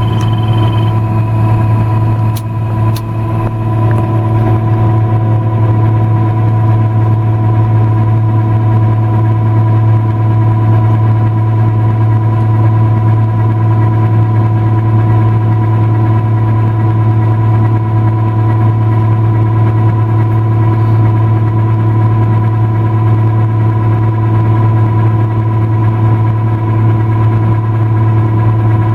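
Combine harvester running steadily while harvesting corn, heard from the cab: a constant drone from its engine and threshing machinery, with a steady hum and a higher whine. Two faint clicks about two and three seconds in.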